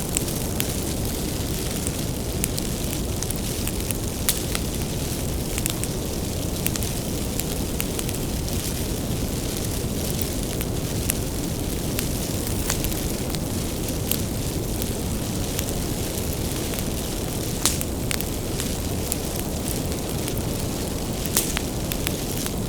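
Bonfire of firewood burning: a steady low roar of flames with irregular crackles and sharp pops from the burning wood, a few of them louder.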